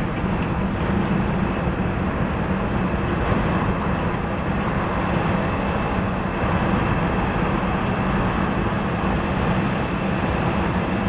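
Boeing 737 jet engines running, a steady rumble with a faint high whine held through.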